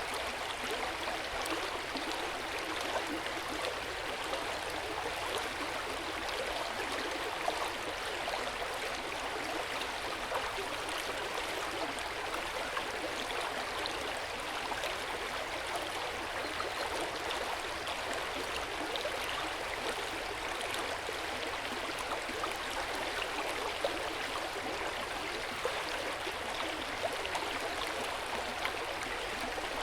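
Hot-spring water flowing steadily into an open-air bath: an even, continuous rush of water with scattered small splashes and drips.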